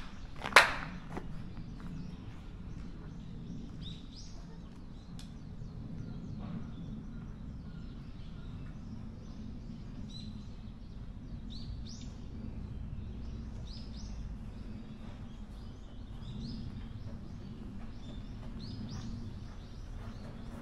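One sharp clack about half a second in, the loudest sound, with a brief ring. After it, small birds give short high chirps every second or two over a steady low outdoor background noise.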